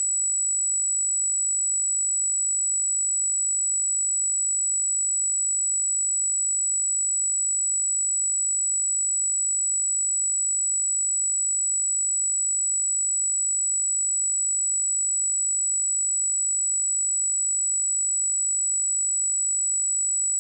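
A steady, high-pitched pure sine tone at 7862 Hz, unchanging in pitch and level, played as a speaker and headphone test signal.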